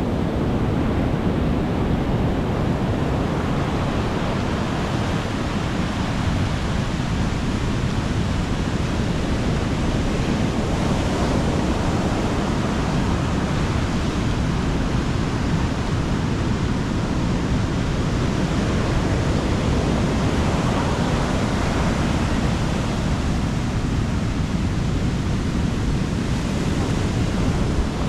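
Sea waves on a beach, heard as a steady, unbroken rush of surf with a heavy low rumble.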